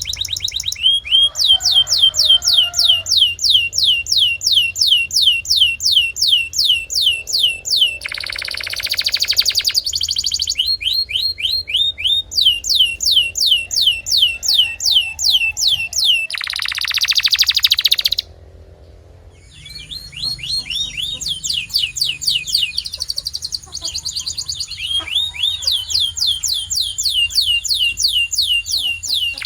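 Canary singing: long runs of quick, repeated down-slurred whistles, several a second, broken twice by harsh buzzy trills, with a brief pause about two-thirds of the way through.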